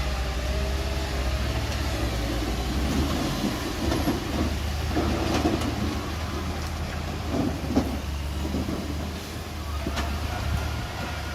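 Mini Komatsu bulldozer working: its diesel engine runs at a steady low hum, easing briefly a few seconds in, while the machine clanks and knocks several times in the middle, with a sharp click near the end.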